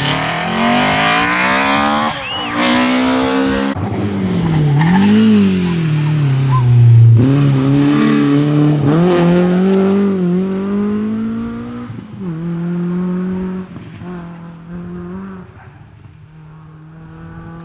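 Rally car engine revving hard, rising in pitch and dropping sharply at each gear change as the car accelerates past, then fading as it moves away.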